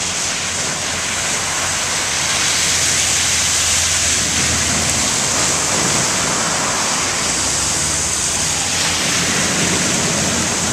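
Hurricane wind blowing hard over the microphone: a steady rushing noise with a low rumble from the gusts buffeting it.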